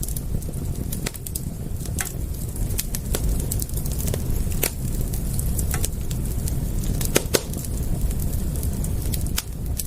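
Wood fire crackling: sharp irregular pops and snaps over a steady low rumble of burning, with one louder pop about seven seconds in.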